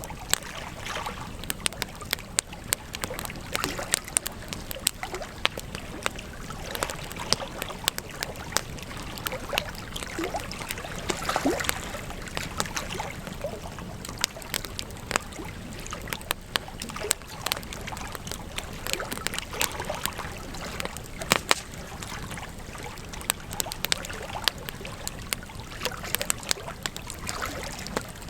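Wood campfire crackling steadily, with frequent sharp pops and snaps over a soft hiss; one louder pop about two-thirds of the way through.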